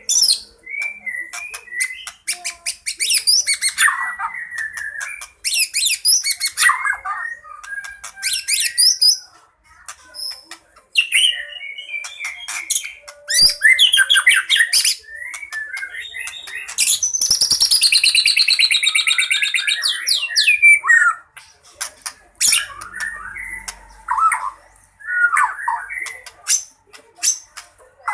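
White-rumped shama (murai batu) singing a long, varied song in aggressive fighting mode: quick whistled phrases and rapid clicking chatters, with a long harsh buzzy phrase about two-thirds of the way through.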